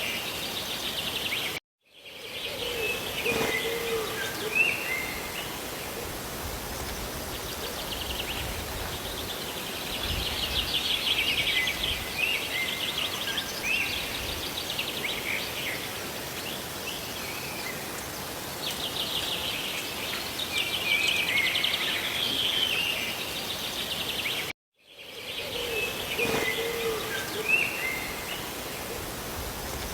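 Steady hiss of rain and falling water with small birds chirping and trilling again and again over it. The sound cuts out to silence for a moment twice, about two seconds in and near the end.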